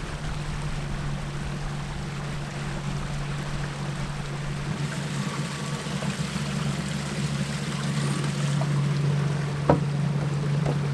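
Water rushing and splashing along the hull of a solar-powered electric boat under way, over a steady low hum. A single sharp click sounds near the end.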